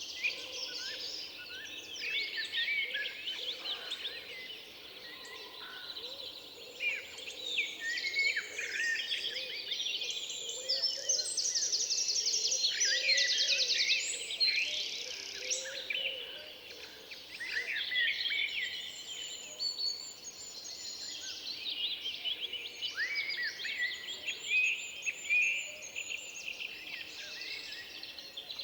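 Several songbirds singing at once in a forest, overlapping chirps, whistles and trills, busiest in the middle, with a fast, even trill about halfway through.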